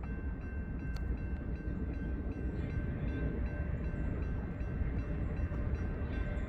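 Freight train running past with a steady low rumble of diesel locomotives and rolling cars. Over it runs a steady high-pitched ringing with a quick, regular pulse.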